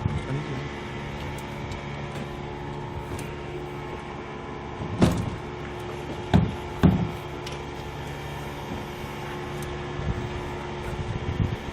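Steady motor hum with several fixed tones. Three sharp knocks stand out: one about halfway through, then two more close together a second or so later.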